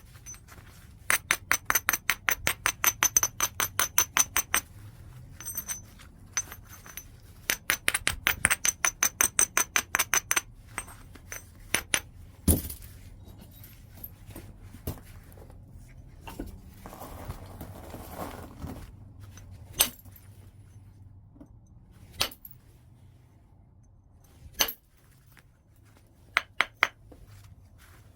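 Flintknapping a large piece of white chert: two runs of rapid light taps, several a second, each with a high ringing clink, followed by a few single sharp strikes spaced seconds apart and a short rasping stretch in between.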